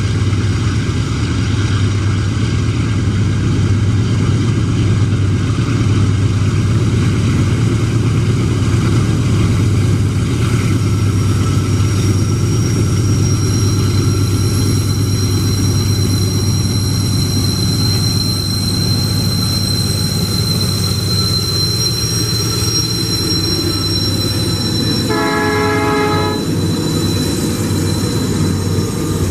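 Two GE AC44i diesel-electric locomotives hauling a loaded iron-ore train past: a steady deep engine drone over the rumble of the ore wagons. A high steady squeal, typical of wheel flanges on a curve, joins about twelve seconds in, and a short horn blast sounds a few seconds before the end.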